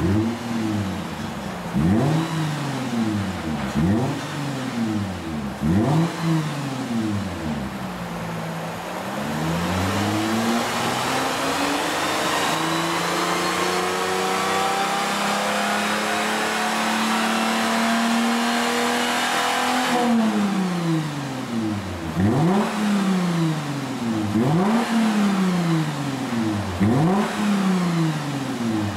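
Toyota Mark X (120 series) V6 exhaust through an aftermarket bullet-type rear silencer tuned for a deep bass note, revved in quick blips about every two seconds. About a third of the way in it is held at raised revs for roughly ten seconds with the pitch slowly climbing, then drops and is blipped repeatedly again.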